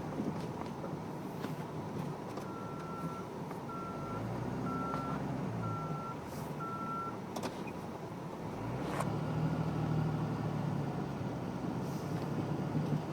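The truck's 5.9-litre Cummins turbodiesel runs throughout, pulling harder twice as the truck moves. Five short, evenly spaced beeps like a reversing alarm sound early on, and there are a couple of sharp clicks after them.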